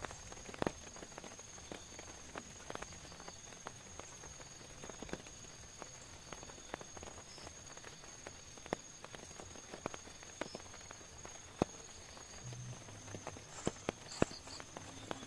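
Scattered water drops tapping irregularly, a few sharper and louder than the rest, over a faint steady hiss and a thin, steady high-pitched tone.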